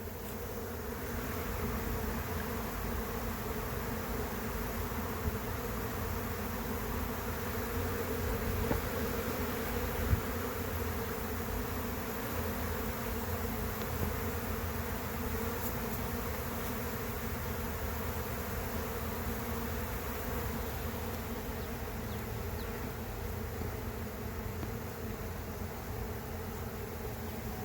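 Honey bee swarm in flight: a great mass of bees leaving the hive, making a steady buzzing hum. One brief knock sounds about ten seconds in.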